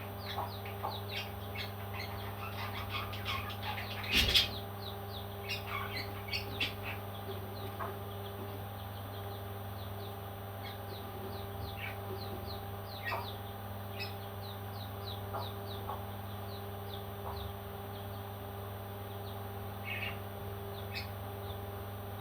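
Baby parrot chicks chirping in rapid, high, short calls, thick in the first several seconds and sparser after, with a louder squawk about four seconds in. A steady low hum runs underneath.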